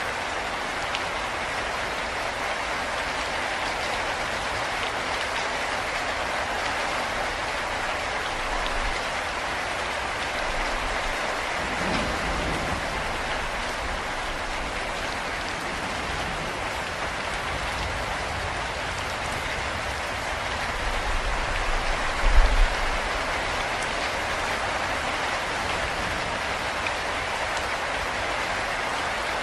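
Steady rain falling, an even hiss of drops. A low rumble comes in briefly about twelve seconds in, and a stronger one about twenty-two seconds in.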